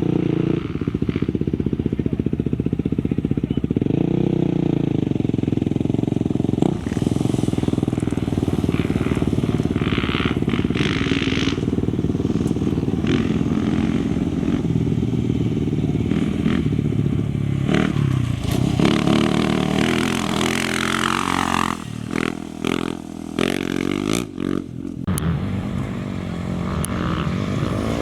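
Off-road race motorcycle and quad engines running hard, revving up and down as they pass. A falling-pitch pass-by comes about three-quarters of the way through, followed by a few quick throttle chops.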